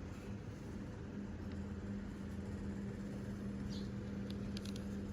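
Steady low electrical-sounding hum of room tone, with a few faint light clicks about four seconds in.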